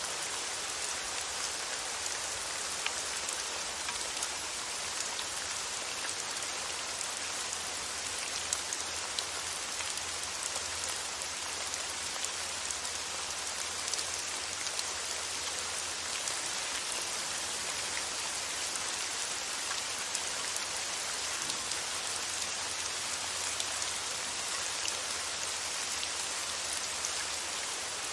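Steady rain falling, an even hiss of many drops with occasional sharper individual drop ticks, used as white noise.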